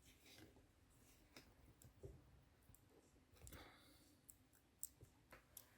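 Near silence broken by a handful of faint, scattered clicks and light taps, like small gear lever parts being handled and fitted.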